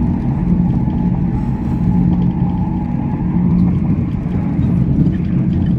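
Moving passenger train's running noise heard inside the carriage: a loud, steady low rumble of wheels on track, with a faint steady whine above it.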